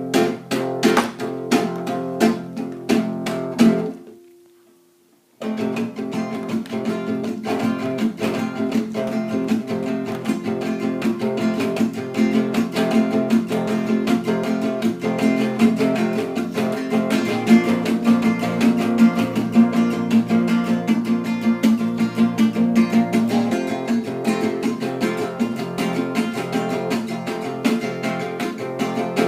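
Acoustic guitar music, strummed and plucked with a steady rhythm. It cuts out for about a second and a half about four seconds in, then starts again.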